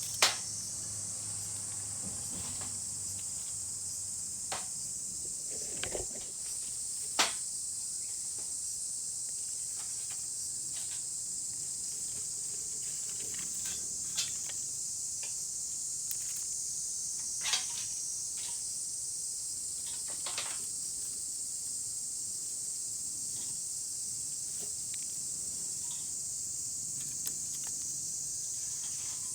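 A steady, high-pitched chorus of insects runs throughout. A few sharp clicks and knocks are scattered over it, the loudest about a second in and again around 7 and 17 seconds in.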